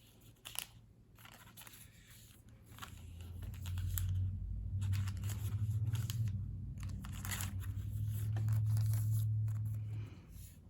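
Plastic packaging crinkling and tearing as it is handled. A loud low hum swells in about three seconds in and drops away near the end.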